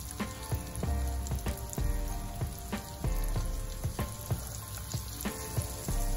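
Pork steaks sizzling and crackling as they fry in a pan.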